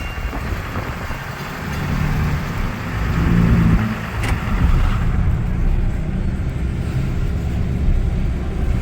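Boat engine running at low speed as it moves through a canal lock, a steady low rumble that swells about three to four seconds in.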